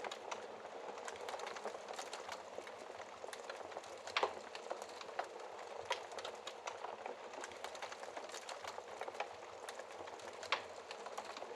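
Wood fire burning in a fireplace: steady hiss with constant small crackles, and a couple of louder pops about four seconds in and near the end.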